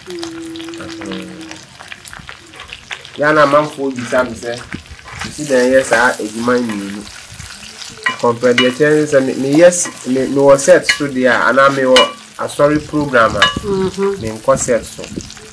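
Food frying in a pot while it is stirred, a hiss with scattered scraping clicks, under people's voices talking loudly over it.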